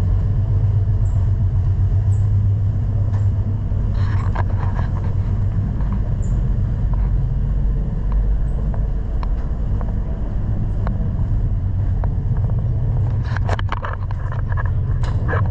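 Steady low rumble of a moving Deutsche Bahn train heard from inside a carriage, with a few light clicks and knocks about four seconds in and again near the end.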